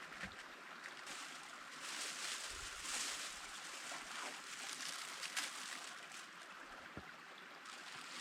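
Crinkling and rustling of a mylar thermal emergency blanket being handled and fitted, swelling for a second or so in the middle, with scattered light clicks and taps.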